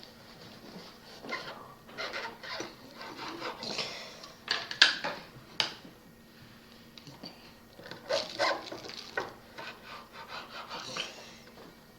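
Knife cutting through a piece of carrot, shaping rabbit ears: uneven scraping, sawing strokes with a few sharp taps of the blade, the loudest about five seconds in.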